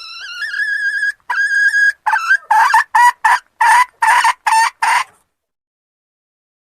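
Junglefowl hen calling a male: two long drawn-out notes, the first rising in pitch, then a quick run of about eight short clipped notes that stops about five seconds in.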